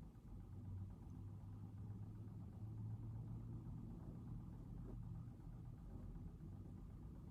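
Faint, steady low rumble with a low hum that is strongest from about one to five seconds in.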